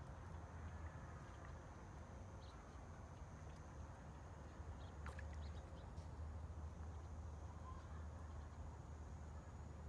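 Faint, steady ambient background with a low hum and a thin high tone, broken by a few faint clicks, one sharper about five seconds in.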